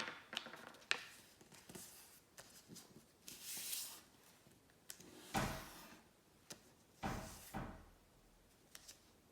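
Sheet of paper being folded and creased by hand: irregular rustles and crinkles, with a few louder crackles around the middle as it is pressed flat.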